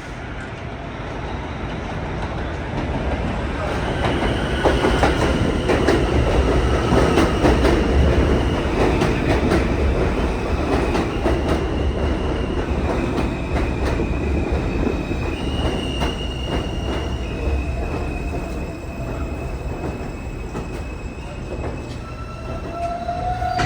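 New York City subway train running on the rails: a steady rumble with rapid clicks as the wheels pass over rail joints, and high, drawn-out metal wheel squeals that shift in pitch for most of the stretch. The rumble swells over the first few seconds, then slowly eases.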